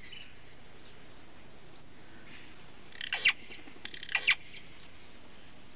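Tropical forest ambience: a steady faint high-pitched background drone with a few faint short chirps, and two loud bird calls, each sweeping down in pitch, about a second apart in the middle.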